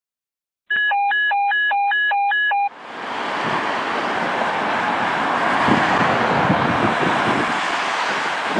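A short electronic beeping pattern, two tones alternating about twice a second for about two seconds. It then gives way to steady outdoor road and wind noise that swells over the next second and holds.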